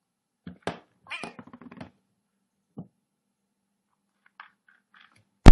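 A cat meowing in a few short calls, with quiet gaps between them. A sudden loud burst comes right at the end.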